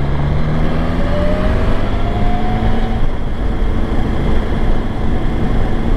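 BMW S1000XR inline-four motorcycle engine running under way, its pitch rising gently through the first few seconds and then holding steady.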